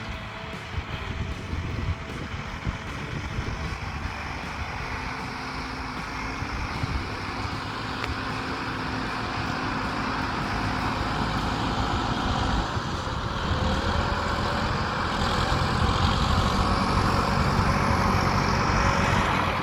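Vehicle engine running steadily, its pitch shifting about two-thirds of the way through and the sound growing louder toward the end before cutting off suddenly.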